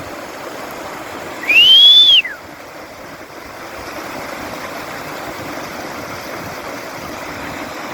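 A reindeer herder's single loud whistle, about a second and a half in, rising then falling in pitch: a signal to drive the herd. It sounds over a steady rushing noise.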